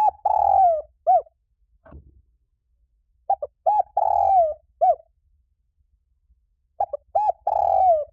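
Spotted dove cooing, three phrases a little over three seconds apart. Each phrase is a couple of short coos, a longer coo that falls in pitch at its end, and a short closing coo.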